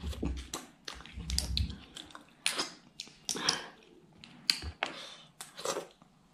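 Close-miked chewing and wet mouth smacks while eating butter clams in curry with rice. The sound is a string of short, sharp smacks and clicks, with a couple of low muffled thuds in the first two seconds.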